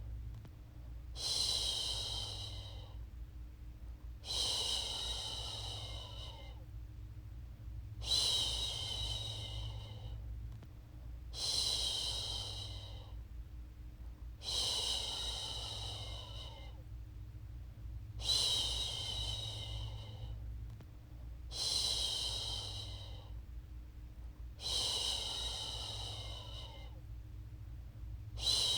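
A woman's long "shhh" shushing, repeated about every three and a half seconds; each shush starts loud and fades away. It is a rhythmic shushing used to soothe a baby back to sleep.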